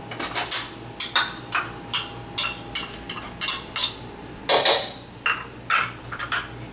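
A metal utensil knocking and scraping against a bowl in quick repeated strokes, about two to three a second, with two longer, louder scrapes a little after the middle.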